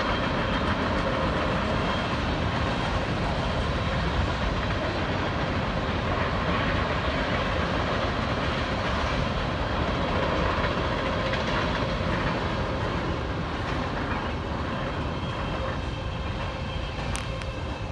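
Empty railroad tank cars of a freight oil train rolling past, a steady rumble of wheels on rail that eases off slightly near the end.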